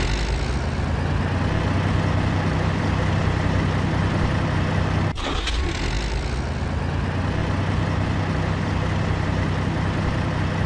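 Heavy vehicle's engine running steadily with a low, even hum, played as a recorded engine sound effect. There is a brief break about halfway through, where the recording is spliced.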